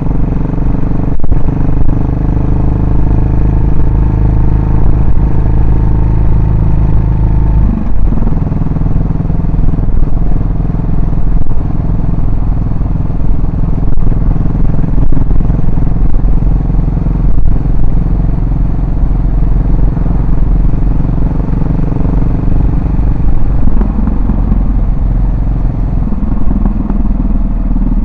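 Yamaha SR400's single-cylinder four-stroke engine running, its exhaust note heard throughout. The note holds steady at first, changes suddenly about eight seconds in, and shifts again near the end.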